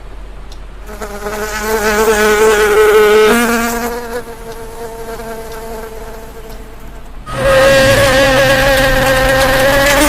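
An insect buzzing close by in two spells with a wavering pitch: one from about a second in lasting some three seconds, and a louder one starting about seven seconds in.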